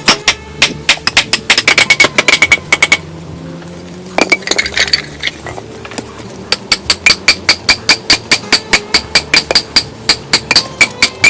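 Rapid, even strikes of a hard tool on a hard surface, about five a second, each with a short metallic ring. They stop for about three seconds a third of the way in, apart from a strike or two, then start again.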